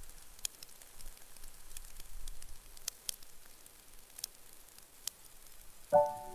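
Wood fire in a fireplace crackling, with sparse sharp pops and snaps over a faint hiss. Gentle chiming music comes in near the end.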